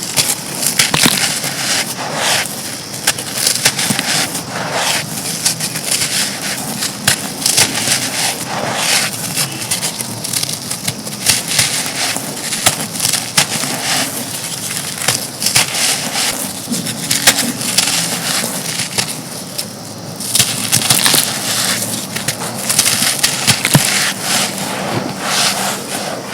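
Brittle, dry crumbling material crushed and breaking apart in a dense, continuous run of crunches and crackles, with crisper, sharper crackling over the last few seconds.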